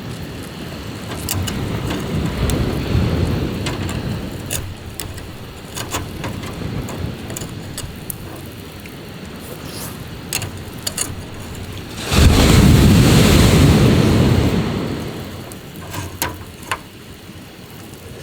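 Sea waves washing onto the shore in a steady rush, with two larger surges, the louder one starting suddenly about twelve seconds in and fading over a few seconds. Scattered sharp crackles run through it.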